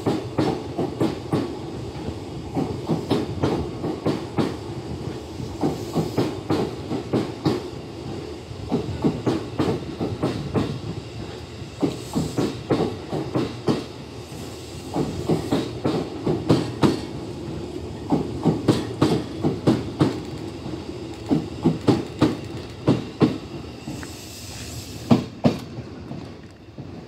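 E233-series electric train departing and running past, its wheels clacking over the rail joints in a long run of sharp clicks over a steady rumble. The clacking thins out and the sound drops away near the end.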